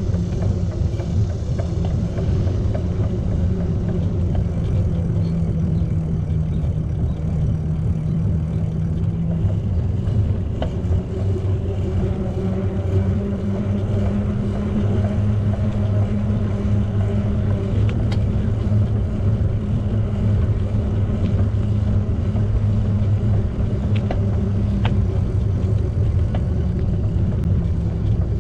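Steady low rumble of riding a bicycle, the tyres rolling and wind passing the microphone, with a few faint ticks.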